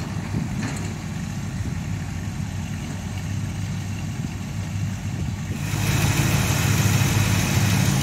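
Square-body Chevrolet truck engine idling steadily, with a low, even exhaust note. It gets louder, with added hiss, about six seconds in.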